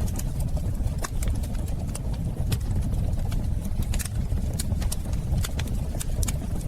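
Wood fire crackling in a fireplace: a steady low rumble with irregular sharp pops and snaps scattered through it.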